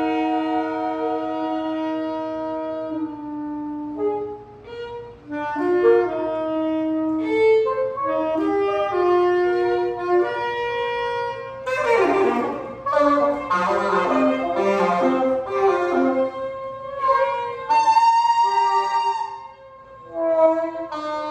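Free-improvised jazz on saxophones: several saxophones holding and overlapping long notes, then a dense, rough flurry of notes in the middle, with high sustained tones near the end.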